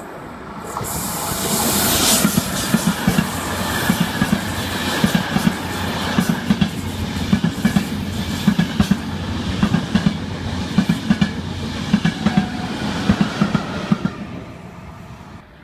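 Trenitalia Frecciabianca passenger train passing through the station: rail noise swells over the first two seconds, then the wheels click-clack steadily over the rail joints as the coaches go by, fading away near the end.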